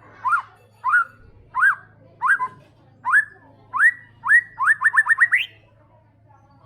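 White-rumped shama singing a series of clear whistled notes, each sliding up in pitch, spaced a little over half a second apart. The notes climb higher, then quicken into a fast run of rising whistles and stop about a second before the end.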